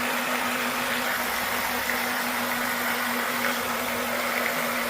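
Small electric motor of a DIY RC boat running steadily, a constant hum over a steady hiss.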